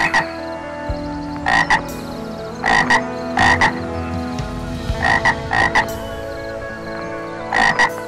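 A frog croaking in short double calls, a pair of croaks every second or two.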